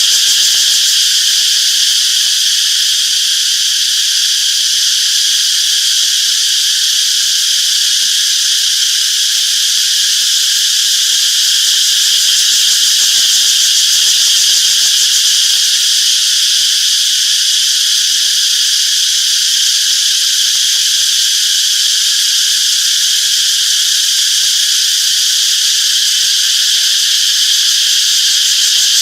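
Chorus of cicadas buzzing continuously, a loud, steady, high-pitched drone that neither pauses nor changes.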